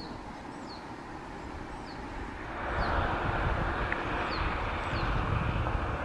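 A small bird's short, high, down-slurred chirps repeating about once a second, over a low rumble. About two and a half seconds in, a louder rushing noise swells up.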